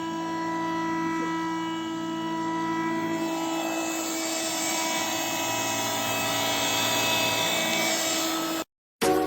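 Handheld mattress mite vacuum's motor running with a steady whine over rushing air, the air noise growing stronger from about three seconds in; it cuts off suddenly near the end.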